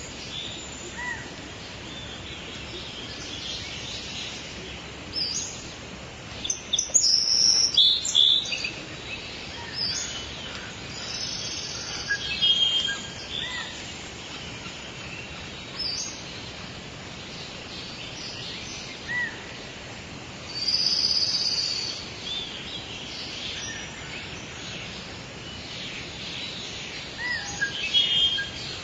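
Several birds chirping and calling over a steady outdoor hiss, with short high calls scattered throughout and louder flurries of calls about a quarter of the way in and again about two-thirds through.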